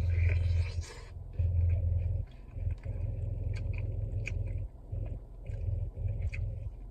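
Close-up chewing and mouth smacking on chicken wing drumsticks, with many small wet clicks over a low hum that comes and goes.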